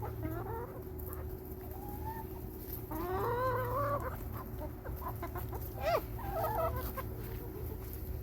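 Chickens clucking and calling while being fed lettuce by hand: a few short calls, a longer rising call about three seconds in, and a sharp squawk about six seconds in followed by quick clucks.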